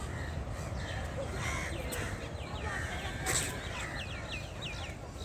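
Birds calling in a quick series of short, curved chirps, with a single sharp click about three seconds in, over a steady low background rumble.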